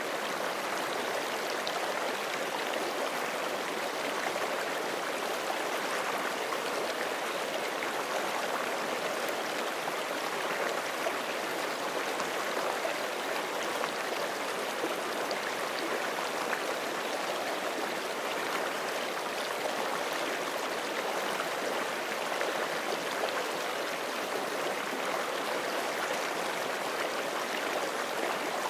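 Forest stream running steadily over rocks, an even rush of water.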